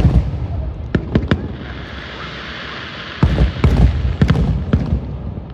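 Fireworks going off: a few sharp booms and bangs, then a stretch of hissing crackle, then a quick run of several more bangs.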